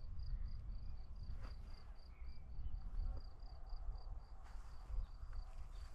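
A cricket chirping in an even rhythm, about four chirps a second, over a low rumble.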